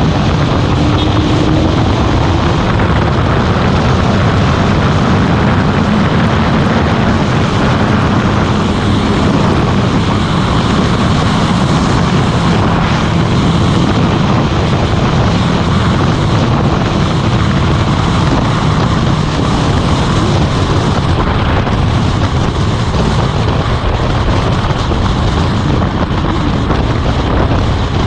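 Motorcycle running steadily at road speed, its engine hum under heavy wind rush on the microphone.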